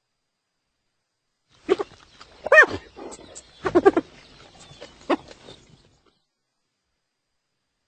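Spotted hyena calling: a cluster of about four short calls, each rising and falling in pitch, with the loudest about two and a half seconds in.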